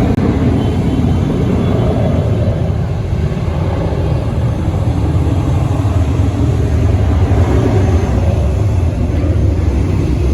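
Jet airliner engines running, a loud, steady rumble that barely changes.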